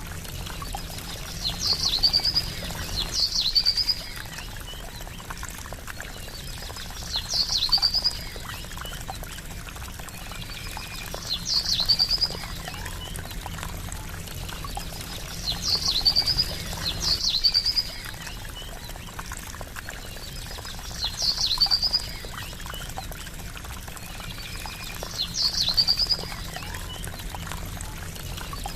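A small songbird gives a short, high call eight times, each a sharp downward note running into a brief trill, about every four seconds. Underneath, gurgling water trickles steadily.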